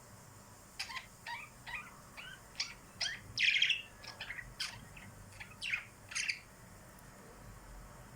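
Small birds chirping: a quick run of short, high chirps and calls, with a louder chattering burst near the middle, stopping about six seconds in.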